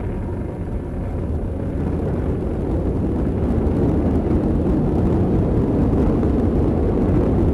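Atlas V rocket's RD-180 first-stage engine rumbling in ascent, a deep, dense roar that swells slowly louder; the engine is running steadily at full thrust.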